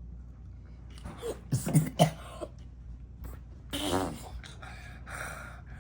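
A boy's disgusted mouth and throat noises while tasting a drink he dislikes: short vocal bursts about a second in, a longer groan-like sound around four seconds, then a breathy hiss.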